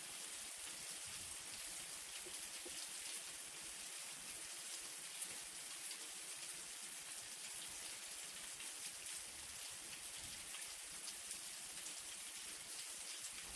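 Light rain falling steadily, a soft even hiss with many small drops ticking on a surface.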